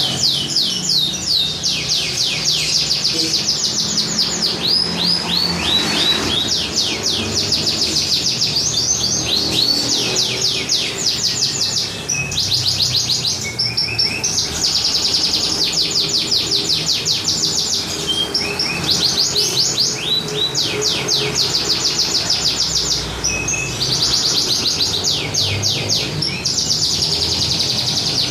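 Domestic competition canary singing continuously in long, very fast trills, phrase after phrase, with only brief pauses between phrases.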